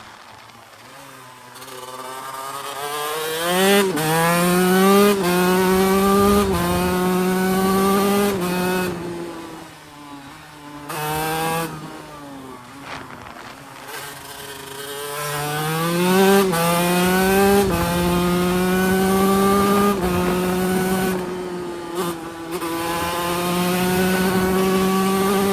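TM Racing SMR 125 two-stroke single-cylinder engine accelerating hard through the gears, heard on board. Its note climbs and drops back with each upshift. It backs off for a few seconds near the middle, then pulls up through the gears again.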